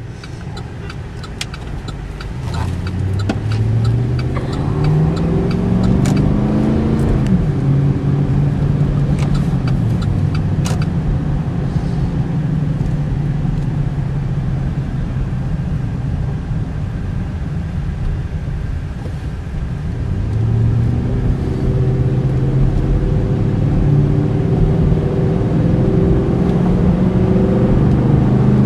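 2008 Chevy Silverado 1500's V8 engine pulling the truck under acceleration, heard from inside the cab over road noise. The engine pitch climbs for several seconds, drops sharply at an upshift about seven seconds in, holds steady while cruising, then climbs again in the last third.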